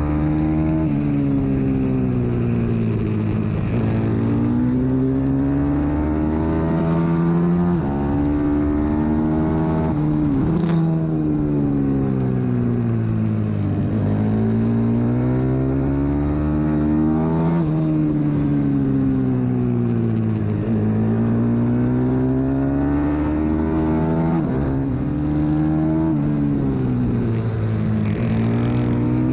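125cc single-cylinder pit bike engine at race pace. Its pitch climbs as it accelerates and drops sharply at upshifts, then falls away under braking into corners, over and over.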